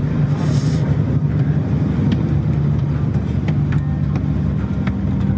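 An engine running steadily with a low, even hum, with scattered light clicks and knocks over it and a brief hiss about half a second in.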